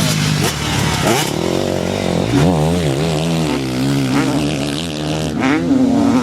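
Motocross motorcycle engines revving hard, their pitch rising and falling quickly and repeatedly as the throttle is worked.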